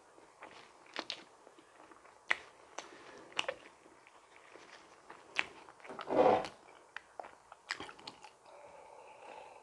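Close-up chewing and biting of donuts, with sharp wet mouth clicks about once a second. A louder sound of about half a second comes roughly six seconds in.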